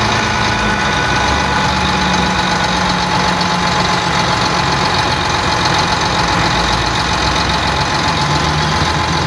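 Sinotruk HOWO dump truck's diesel engine idling steadily.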